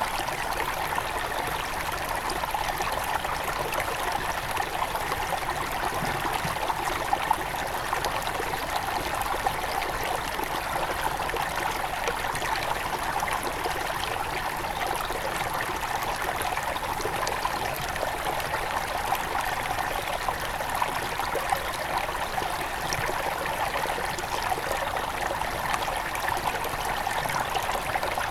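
Shallow river headwaters flowing and trickling over stones in a steady rush, with small splashes scattered through it.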